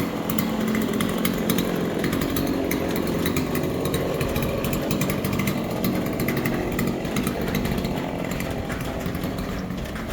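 Two-stroke chainsaw running steadily, cutting up a fallen tree.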